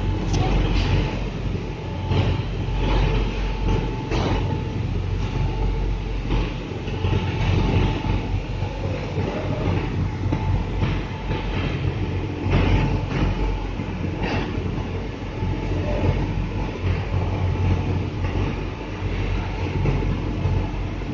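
Loading conveyor running: a steady low machine hum and rumble with scattered, irregular knocks and clatter.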